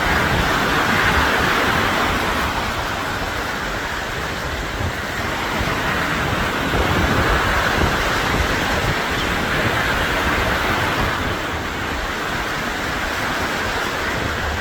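Sea waves washing on the shore, swelling and easing a few times, with wind rumbling on the microphone.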